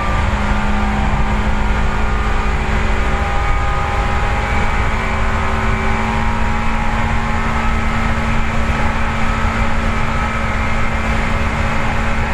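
Seibu 4000 series resistance-control electric train running between stations: a steady rumble of wheels on rail with the whine of traction motors and gears. The tones step slightly higher in pitch about three seconds in.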